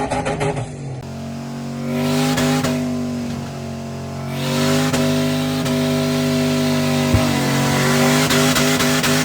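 Burnout: an engine held at high revs while the tires spin and squeal, its pitch sagging once and climbing again, with a single sharp crack partway through. The first second is a different, pulsing engine sound.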